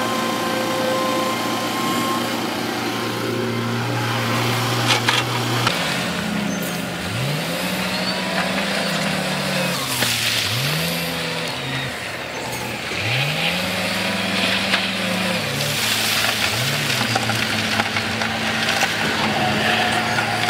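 Heavy-equipment diesel engine running at a steady pitch, then revving up and dropping back about four times as the machine works, with a few clanks.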